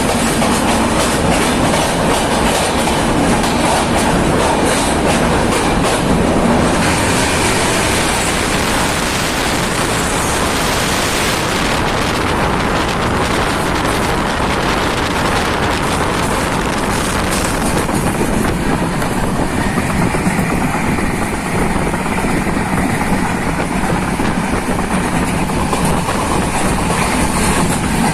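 Netravati Express passenger train running along the track, heard from on board: a steady loud rumble of the coaches, with the wheels clicking over rail joints, most clearly in the first few seconds.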